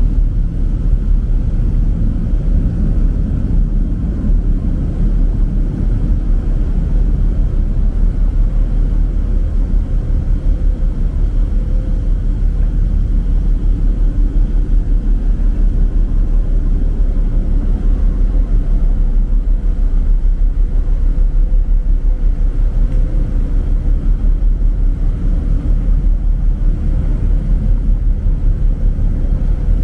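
Steady low rumble of the ferry Taiko under way, with a faint steady hum riding over it.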